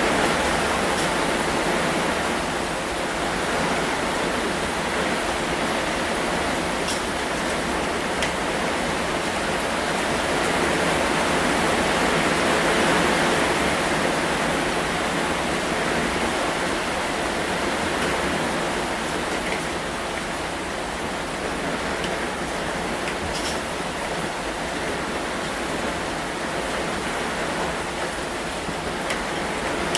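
Steady heavy rain, a dense even hiss that swells a little midway, with a few faint drip ticks.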